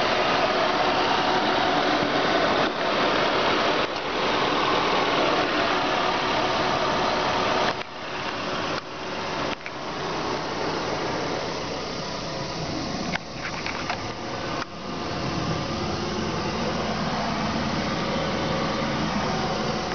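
2003 Toyota Prius engine running steadily under a loud hiss. The sound dips briefly a few times midway, then a lower rumble grows stronger in the second half.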